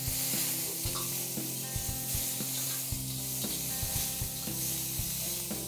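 Oil sizzling in a wok over a high flame as chopped tomatoes and tempering spices fry, with a ladle stirring and scraping the pan in a few short clicks. A steady low hum runs beneath.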